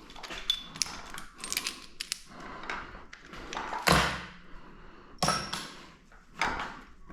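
Metal engine parts and hand tools clinking and clanking as they are handled and set down, with scattered light clicks and a few sharper clanks, the loudest about four seconds in.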